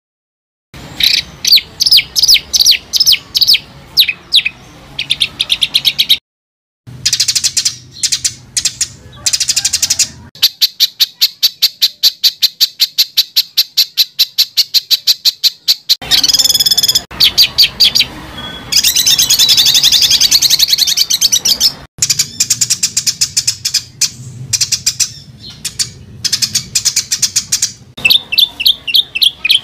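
Songbird song spliced into a bird-tutoring recording: loud, rapid series of sharp high notes and trills, cut by brief moments of total silence near the start and about six seconds in. In the middle comes a fast, even trill of about seven notes a second lasting several seconds.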